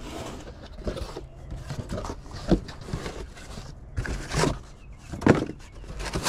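Scattered knocks and rustles of parts being handled: a few sharp noises a second or more apart.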